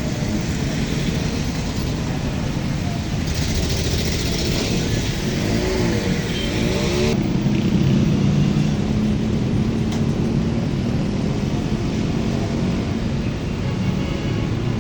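Motor vehicle engines running in traffic on a rain-flooded road, with a steady hiss of tyres through water. The hiss gets louder from about three seconds in, and the sound changes abruptly at about seven seconds.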